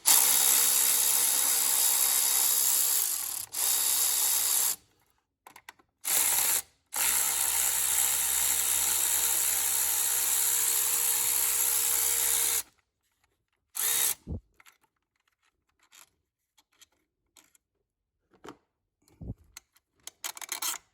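Electric ratchet running on the 8mm bolts of an EcoDiesel's plastic throttle-body housing, with a steady motor whine in several runs: about three and a half seconds, then a second, a short burst, and about five and a half seconds. A brief final burst follows, then only faint clicks.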